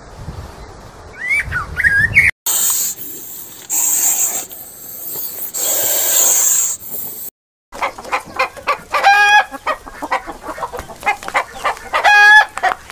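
Chickens clucking: rapid short clucks with two drawn-out pitched calls, one about nine seconds in and one near the end. Before them come a few bird chirps and a stretch of noisy hissing, which cut off abruptly.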